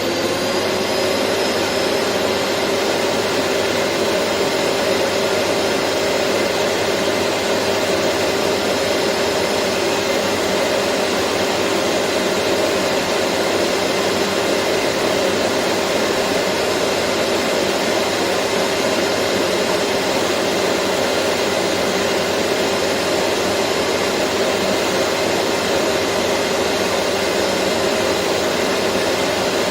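Vacuum cleaner motor finishing its spin-up in the first second or two, then running steadily: an even rushing air noise with a constant motor whine.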